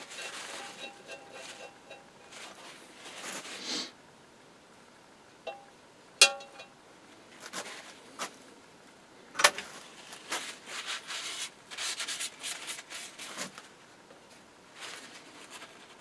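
Hand work on metal workbench parts: bursts of scraping and rubbing, broken by a few sharp metallic clinks that ring briefly, the loudest about six and nine seconds in.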